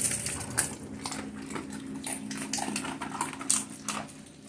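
Animals eating raw pasta: an irregular run of short crunching clicks, with a faint steady hum underneath.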